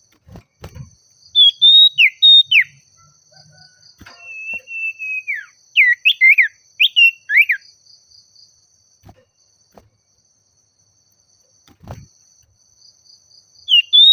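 Common iora (sirtu/cipoh) singing loud, clear whistled phrases: a few short notes that rise and fall, then a long held whistle that slides down at the end, then a quick run of down-slurred notes. After a long pause the song starts again near the end.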